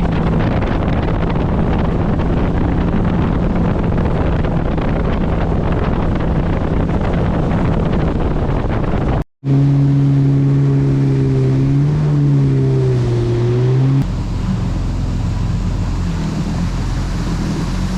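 Jet ski running at speed: a steady engine drone over rushing wind and water. The sound cuts twice. After the first cut the engine hum is louder and clearer and wavers a little in pitch; after the second, about 14 s in, the engine is quieter and deeper.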